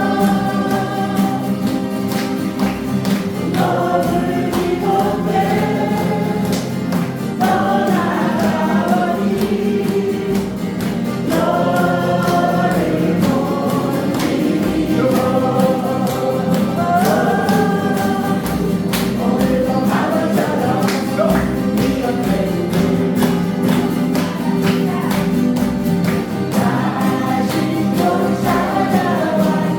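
A group singing a song together in unison, accompanied by strummed acoustic guitars, in phrases a few seconds long.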